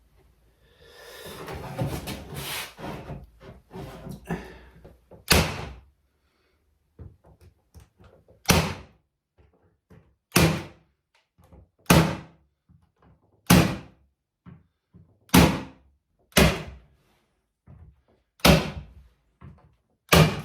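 Tacks being driven into the wooden strips of a model railway baseboard: about nine sharp, separate blows a second or two apart, the tacks being finished off because the cheap tack gun did not drive them fully home. Before the blows there are a few seconds of handling and rustling.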